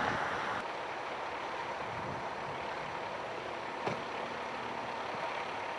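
Steady rumble of vehicles and traffic. A louder noise fades away in the first moment, and a single short click comes about four seconds in.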